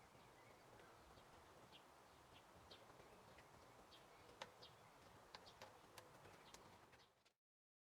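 Near silence: faint room tone with a few scattered light clicks and ticks, dropping to dead silence shortly before the end.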